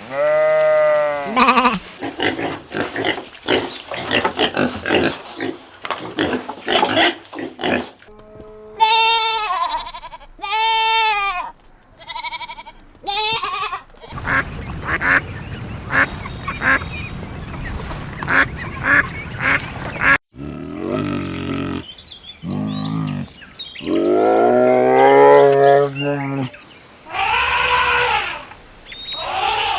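Farm animals calling in a run of separate clips: pitched calls repeated, with the kind of call changing abruptly every few seconds.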